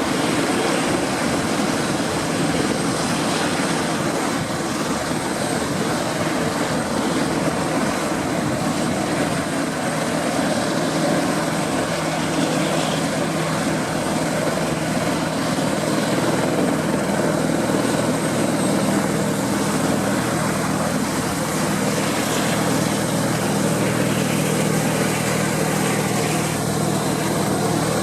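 Dornier Do-27's propeller and piston engine running steadily, with a steady low engine hum growing stronger about two-thirds of the way through.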